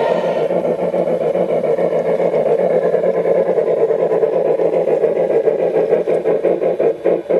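Model train running along the track, its motor and wheels making a steady whir that turns pulsing near the end.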